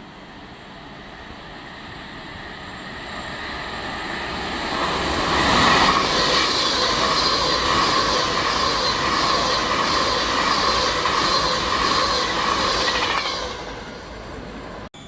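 A train passing along the platform. It grows louder over the first few seconds, stays loud with a steady high whine for about seven seconds, then fades away. Near the end the sound cuts off for a moment.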